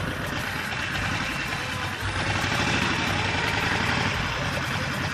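Harley-Davidson Sportster 48's air-cooled V-twin engine running steadily at low speed.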